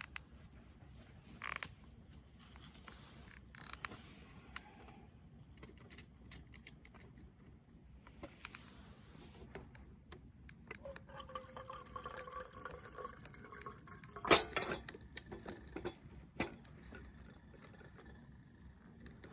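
Small clicks and knocks of camp cookware being handled, with liquid poured into a container for a couple of seconds past the middle, then one sharp metal clank.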